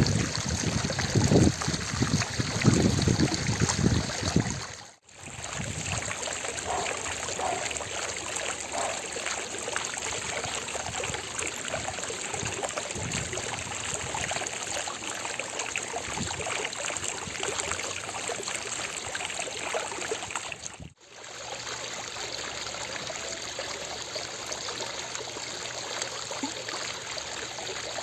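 Fountain water splashing and trickling in a steady rush. It is louder, with low rumbling, for the first few seconds, and it drops out briefly twice.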